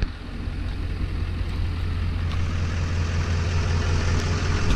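A vehicle engine idling: a steady low rumble with a broad hiss over it.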